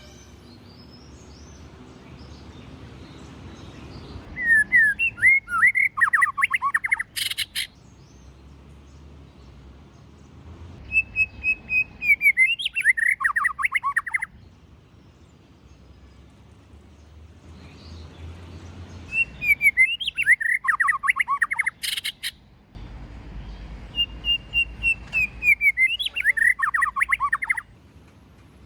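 White-rumped shama singing four separate phrases, each opening with clear whistled notes and ending in a rapid run of chattering notes. A short sharp click comes twice, after the first and third phrases.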